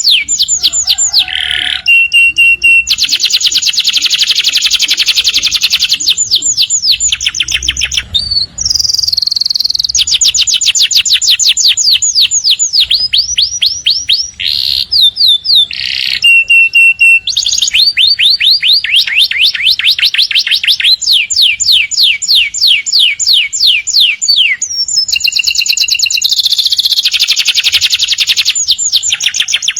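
Domestic canary singing a long, continuous song made of rapid trills, each phrase a fast run of quickly repeated high notes. The trill type changes from phrase to phrase, with a few brief breaks.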